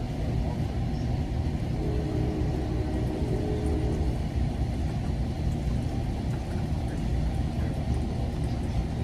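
Steady low rumble of an ACE diesel-hauled commuter train, heard from inside the passenger car, with a faint humming tone from about two to four seconds in.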